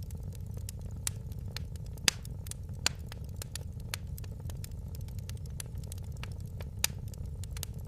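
Wood fire in a fireplace crackling: irregular sharp pops and snaps, a few louder ones about two, three and seven seconds in, over a steady low rumble of the burning.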